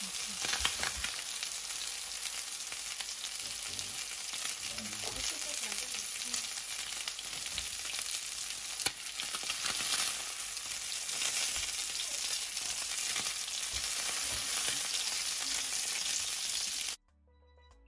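Boneless chicken thighs sizzling in hot oil in a cast iron pan, a steady frying hiss. It cuts off abruptly near the end, leaving faint music.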